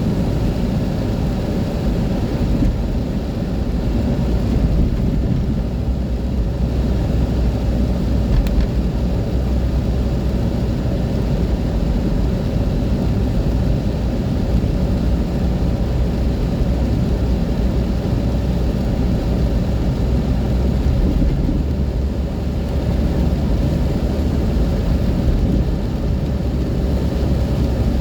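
Car driving on a wet road in rain: a steady, even rumble of engine and tyre noise with rain.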